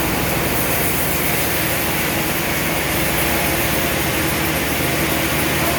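Sawmill machinery running steadily: a constant low drone under an even hiss.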